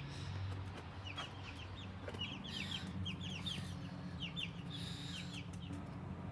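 Chickens clucking, with quick high chirps that fall in pitch, coming in little clusters of two to four.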